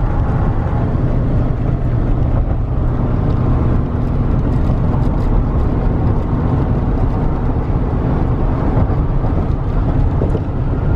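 Steady road noise inside a moving car: tyre roar and engine hum at highway speed.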